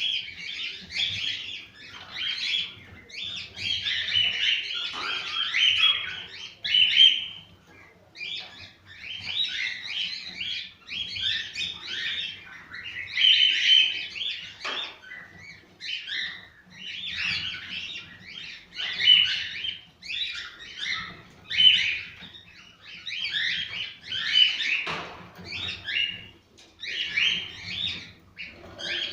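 Cockatiels singing: fast chirps and warbled whistles in phrases one to two seconds long, broken by short pauses. This is the kind of song played to cockatiels to stimulate breeding.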